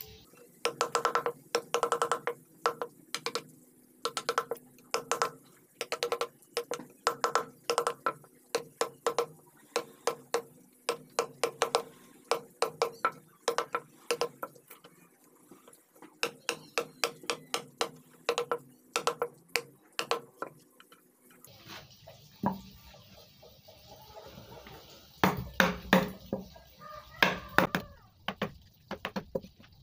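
Mallet striking a carving chisel into wood in quick runs of sharp taps, several a second, with short pauses between runs. The taps get louder in the last few seconds.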